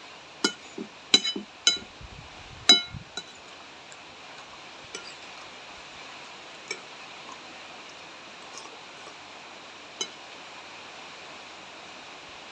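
A spoon clinking against a bowl, four sharp ringing clinks in the first three seconds and a few lighter taps after, over a steady hiss of rain.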